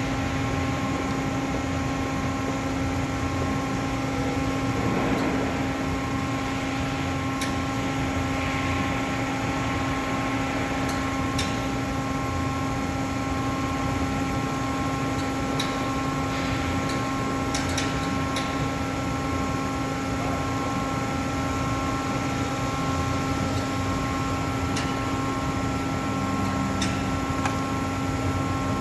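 Streetcar resilient-wheel re-tire press running while it presses a tire over rubber blocks onto a wheel center: a steady machine hum made of several held tones, with a few faint clicks here and there.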